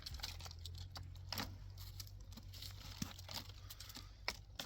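Faint rustling and crinkling with scattered sharp little clicks, as things are handled, over a steady low hum.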